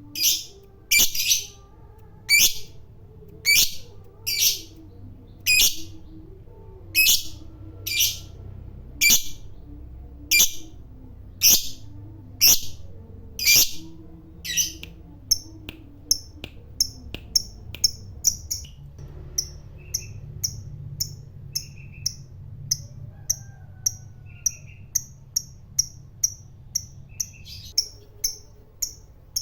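Lovebird calling in shrill, sharp chirps, about one a second, then switching about halfway to shorter, quicker chirps at roughly two a second.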